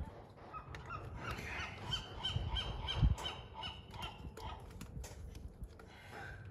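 A bird calling in a quick run of short repeated notes, about four a second, for three seconds or so. Light clicks and knocks sound under it, with one dull thump about three seconds in.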